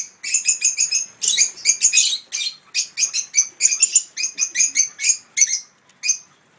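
Small birds chirping: a quick, busy run of short, high notes, several a second, thinning out near the end.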